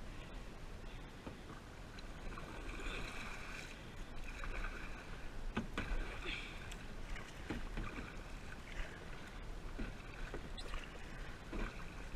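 Kayak paddle strokes dipping and splashing in the water at an irregular pace, over a steady low rumble from the camera's microphone.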